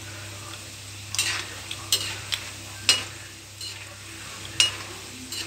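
Batter-coated masala peanuts deep-frying in hot oil in a kadhai with a steady sizzle. A metal slotted spoon stirs them, scraping and knocking against the pan several times from about a second in.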